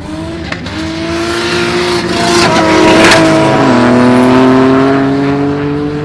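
A race car under hard acceleration passes by, growing louder to a peak about halfway through, then its engine note drops in pitch and fades as it moves away.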